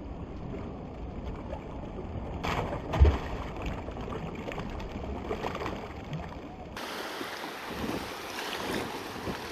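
Seawater washing against shoreline rocks, with wind on the microphone. There is one sharp knock about three seconds in, and the sound changes abruptly near the end.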